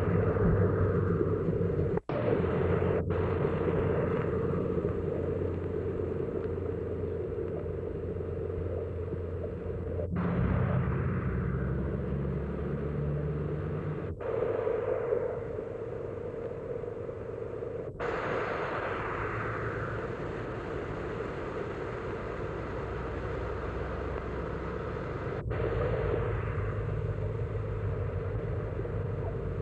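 Steady rumbling noise with a low hum underneath, broken by abrupt cuts about six times, each followed by a brief fading hiss.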